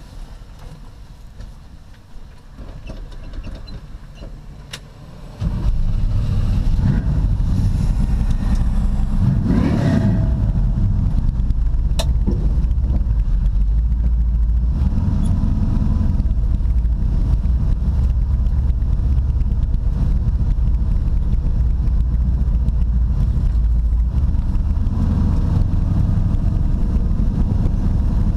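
Classic Chevrolet Camaro's engine heard from inside the cabin: it starts abruptly about five seconds in, rises and falls in a short rev a few seconds later, then runs steadily as the car drives, its pitch climbing near the end.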